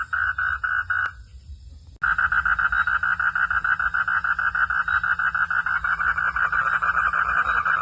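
Frogs calling in a rapid pulsed trill, several pulses a second. The calling breaks off about a second in and starts again abruptly a second later, faster and denser, over a steady low hum.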